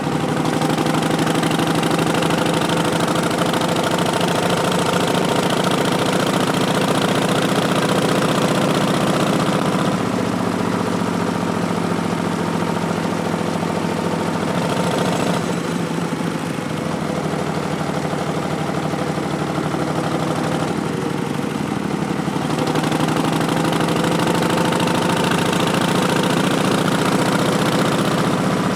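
Harley-Davidson Street Bob's Milwaukee-Eight V-twin running through Vance & Hines Twin Slash slip-on mufflers while riding. The engine note changes pitch several times, rising about ten seconds in, dropping around fifteen seconds and rising again a few seconds before the end.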